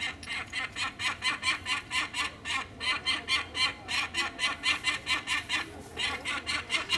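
Peregrine falcon cacking: a long, unbroken run of short repeated calls, about four or five a second.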